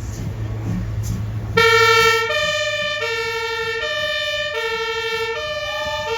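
Fire engine's two-tone siren (Martinshorn) sounding, alternating between a high and a low tone about every three quarters of a second. It starts abruptly about a second and a half in, over a steady engine hum.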